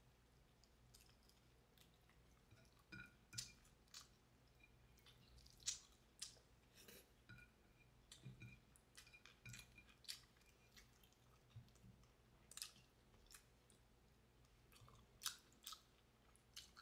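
Faint chewing of garlic fried chicken eaten by hand: scattered, irregular soft mouth clicks over near silence.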